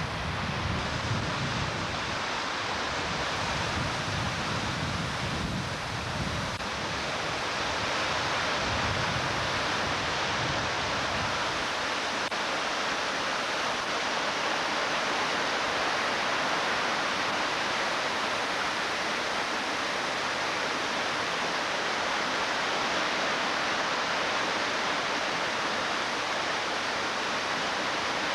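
Creek in flood, rushing water making a steady, even noise. Low gusts of wind buffet the microphone through roughly the first third, then stop.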